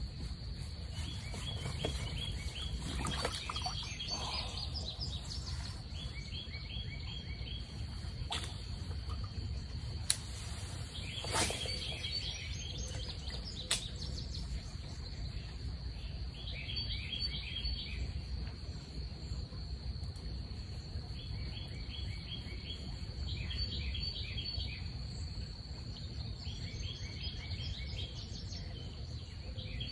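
A songbird repeats a short phrase of quick chirps every few seconds over a steady high insect drone and a low, even outdoor background noise. A few sharp clicks come about a third of the way in.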